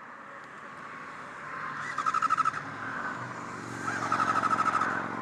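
Honda CBR600RR inline-four being cranked on its electric starter twice, a short try and then a longer one, with a fast even chug of about ten pulses a second, and the engine does not catch. It will not start because a fuel line has come off and the engine is starved of fuel.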